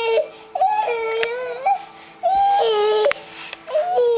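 A baby fussing and crying: a string of about four whining cries, each held on one pitch that jumps abruptly up or down.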